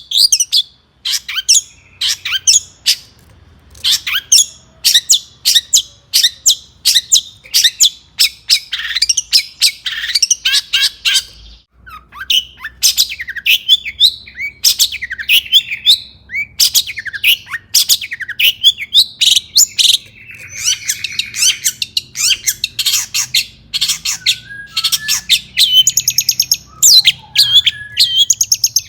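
Long-tailed shrike (cendet) singing vigorously: long runs of fast, harsh scratchy chatter mixed with squeaky whistled notes, broken by short pauses.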